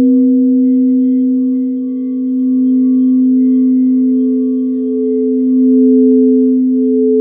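Singing bowls ringing in sustained, overlapping tones: a low steady tone under a higher one that wavers, swelling and ebbing in loudness.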